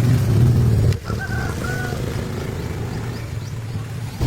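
An old car's engine is running with a low rumble that drops away abruptly about a second in. Two short high tones follow, then a quieter steady background until the rumble comes back at the end.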